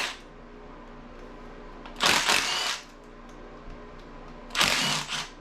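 Cordless power driver spinning in two short bursts, each under a second, loosening the valve-cover bolts on a 5.3 LS V8.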